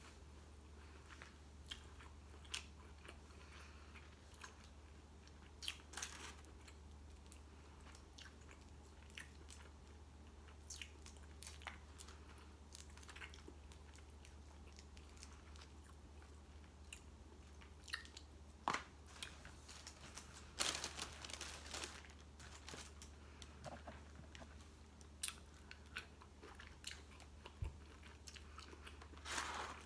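Close eating sounds: chewing with wet mouth noises and scattered sharp clicks and crunches as crab shell is broken apart by hand, densest about two thirds of the way in, over a low steady hum.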